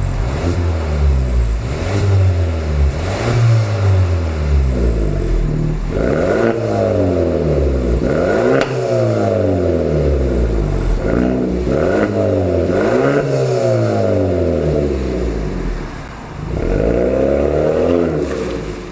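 Exhaust of a Hyundai LF Sonata 2.0 turbo four-cylinder with a Sematech variable exhaust and sport catalytic converter, the engine revved again and again, its pitch rising and falling every second or so.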